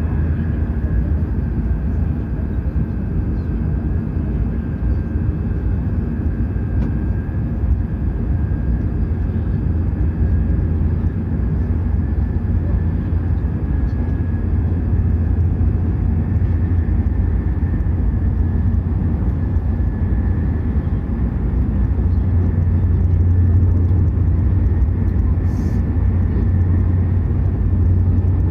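Hokuriku Shinkansen E7/W7-series high-speed train running at speed, heard from inside the passenger car: a steady deep rumble with a faint high whine, growing slightly louder near the end.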